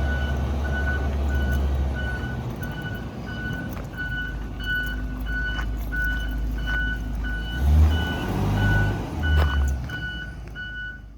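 Blue Bird Vision school bus running with its backup alarm beeping steadily, about twice a second, over the low engine rumble. Near the end, two louder low surges from the engine.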